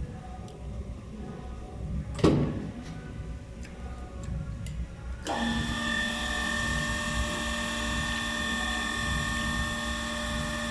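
An electric machine motor switches on abruptly about halfway through and runs with a steady whine. Earlier there is one sharp knock and a few light clicks.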